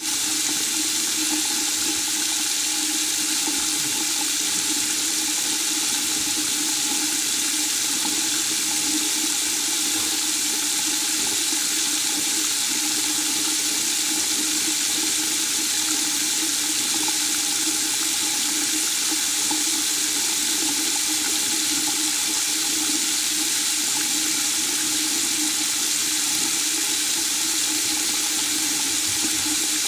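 Steady white noise: an even, unchanging rushing hiss that sounds like running water, strongest in the high range with a faint low hum beneath it.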